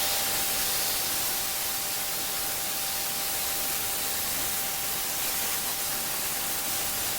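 Abrasive blaster spraying grit against a rusty steel truck frame: a steady, even hiss with a faint steady whistle underneath.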